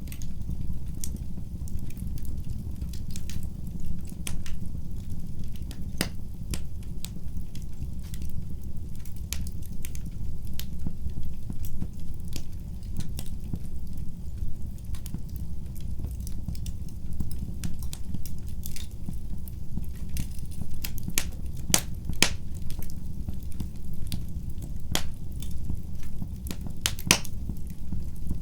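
Wood fire burning in a fireplace, crackling: irregular sharp pops and snaps over a steady low rumble of the flames.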